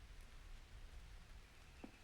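Near silence: a faint low rumble of background noise, with one tiny faint click-like sound near the end.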